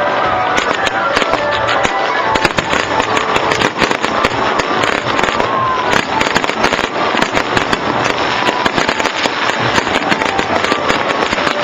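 Fireworks crackling and popping in rapid, dense volleys, with music playing underneath.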